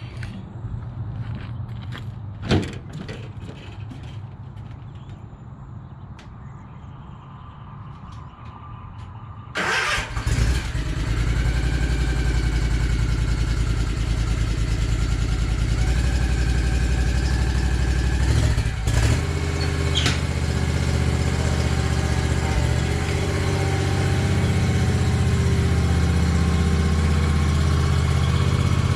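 Low hum with a few sharp clicks. About ten seconds in, a lawn mower engine starts and then runs steadily.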